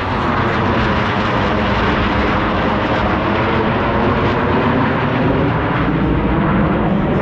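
Jet noise from Blue Angels F/A-18 Super Hornets flying the display, a loud steady rush with a drifting engine tone that rises again near the end.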